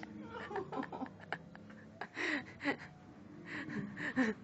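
Quiet gasping laughter: a couple of short breathy bursts about two seconds in, with small clicks and knocks around them.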